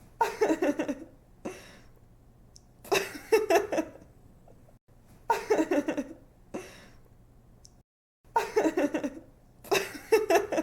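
A young woman's giggling laugh in repeated bursts of quick pulses, about five bursts with short pauses between, over a faint steady low hum.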